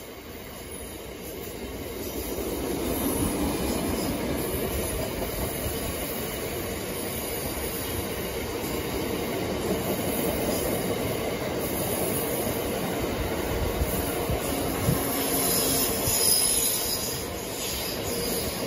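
Empty aggregate box wagons of a freight train rolling past: a steady rumble of steel wheels on rail that builds over the first few seconds, with a few sharp knocks and some high wheel squeal near the end.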